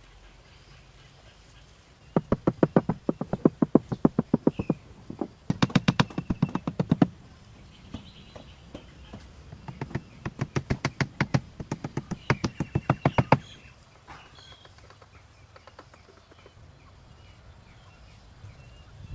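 Rapid, even tapping or knocking, about seven strokes a second, in three runs of a few seconds each, the longest near the middle. Faint bird chirps in the background.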